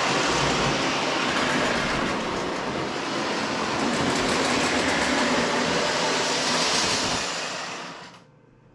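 Lionel 2023 AA diesel set running on O-gauge track, a steady rumble of motor and wheels that dies away near the end.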